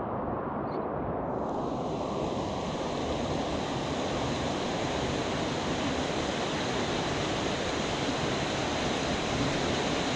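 Steady rush of flowing stream water, turning brighter and hissier about a second in.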